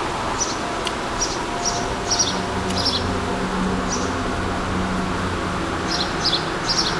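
Small birds chirping in short, repeated bursts over steady outdoor background noise, with a low hum from about two to six seconds in.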